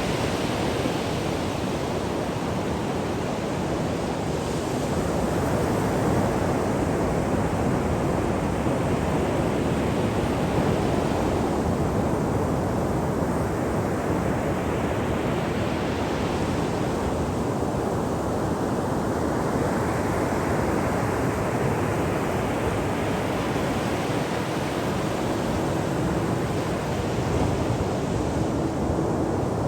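Ocean surf breaking on a shore: a continuous wash of noise whose hiss swells and eases with each wave, about every six seconds.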